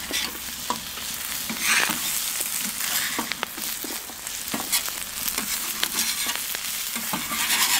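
Food frying in fat on a steel fire plate: a steady sizzle with frequent small pops and crackles of spitting fat.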